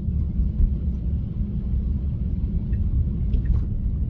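Low, steady rumble of tyre and road noise inside a moving Tesla's cabin on snowy roads, with a few faint clicks about three and a half seconds in.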